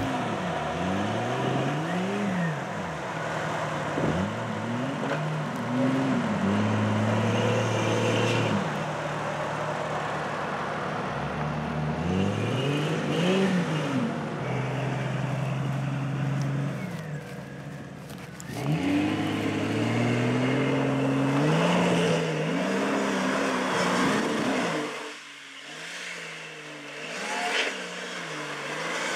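Jeep Cherokee XJ engine revving up and dropping back again and again while driving, with a brief quieter lull near the end.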